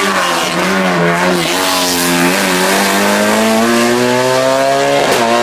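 Hill-climb race car engine under hard acceleration. The pitch dips briefly twice in the first few seconds, then rises steadily as it pulls through a gear.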